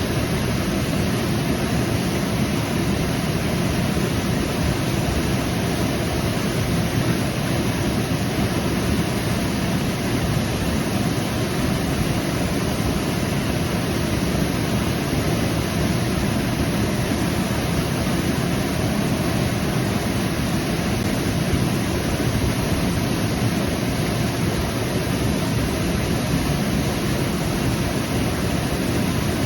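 Waterfall rushing in a steady roar of falling water, even throughout, weighted toward the low end.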